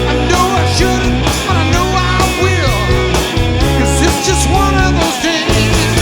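Rock band playing an instrumental passage: a lead line of bending notes over bass guitar, drums and keyboards.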